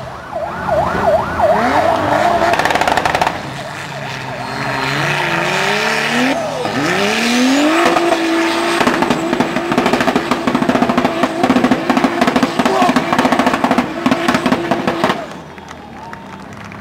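A hill-climb vehicle's engine revving hard up a steep sand hill. The revs surge up and down in quick rises at first, then climb and hold high and steady with a rapid pulsing. It cuts off sharply near the end as the vehicle reaches the top.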